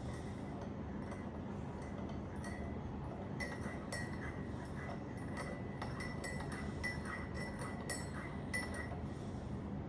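Cutlery clinking against crockery: a run of small, light clinks that ring briefly, coming thickest from about three and a half seconds in until near the end, over a steady low hum.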